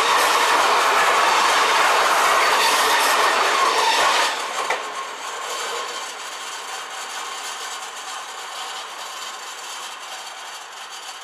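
NS double-deck Intercity train passing close by at speed, a loud rush of wheels on rail. It cuts off sharply about four seconds in as the last carriage clears, then fades away as the train recedes.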